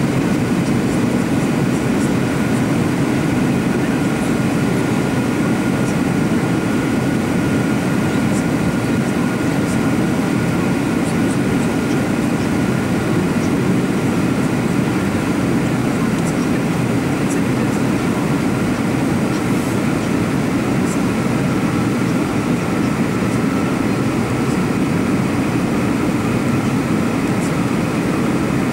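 Steady cabin noise inside an Airbus A321 airliner: an even rush of engine and airflow noise, with a faint steady whine above it.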